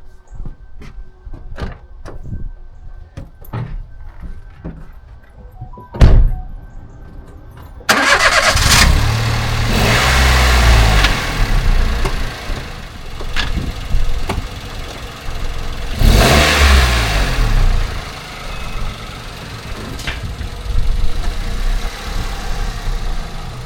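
Toyota Aygo engine running loud from about eight seconds in, its revs rising and falling twice. Before that come faint regular clicks and one sharp knock.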